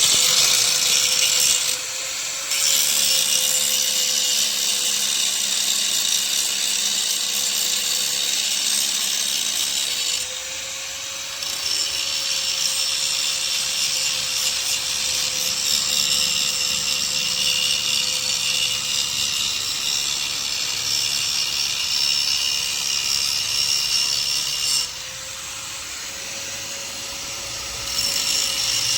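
Angle grinder cutting metal: a steady motor whine under a loud, hissing grind from the disc. The grinding stops three times, briefly about two seconds in, again around ten seconds in, and for about three seconds near the end, while the motor keeps running and its pitch rises slightly.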